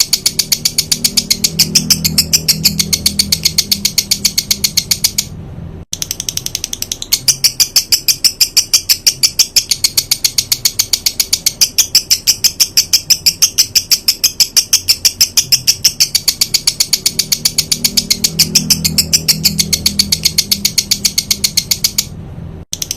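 Songbird 'tembakan' call: very rapid, sharp high-pitched notes repeated at about five or six a second in long unbroken runs. The runs break off about five seconds in and again near the end. Used as masteran for training white-rumped shamas.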